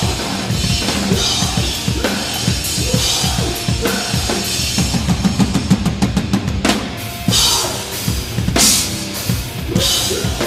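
Live metalcore band playing with no vocals: drum kit driving with kick drum and snare under distorted guitars and bass. A very fast drum fill comes a little past the middle, then cymbal crashes.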